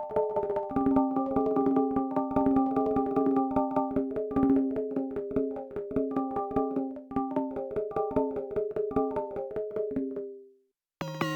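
Nord Drum 3P percussion synthesizer playing a fast sequenced rhythm pattern on a preset kit of short, pitched hits. It stops about ten seconds in, and after a brief silence the next preset kit starts with a lower, denser sound.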